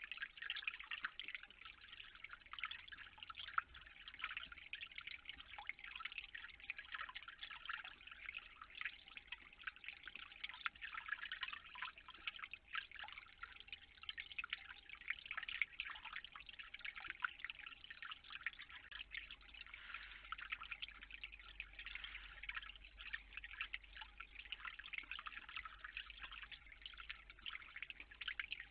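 Water dripping and pattering in a dense, irregular stream of small ticks, steady throughout.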